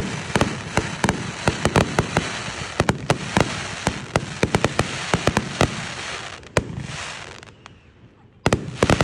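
Aerial fireworks shells bursting close by: a rapid run of sharp bangs and crackling for about six seconds, dying away, then a fresh cluster of loud bangs near the end.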